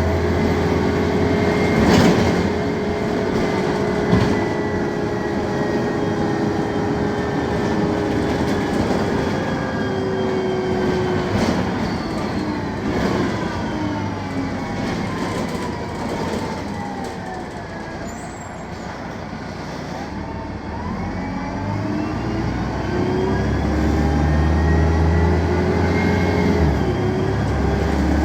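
BredaMenarini M 240 LU city bus running on its Mercedes-Benz OM 906 LA six-cylinder turbodiesel: the engine drone eases off and falls in pitch around the middle, then builds and rises again toward the end. Two sharp knocks a few seconds in.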